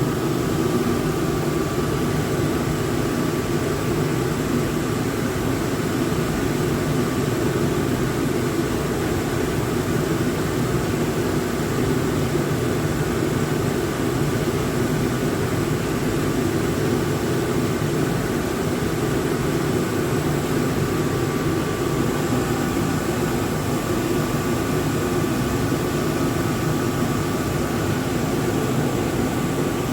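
Freshly serviced plant-room gas boiler firing steadily at low fire: an even burner noise with a few faint steady high tones over it.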